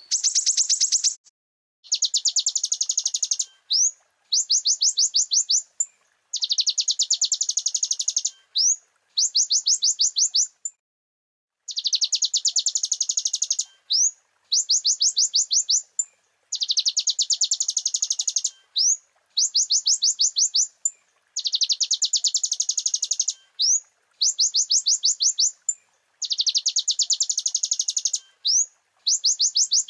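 Kolibri ninja (a sunbird) song: a rapid, high chattering trill about a second and a half long, ending in a short rising note, repeated over and over at a very even pace.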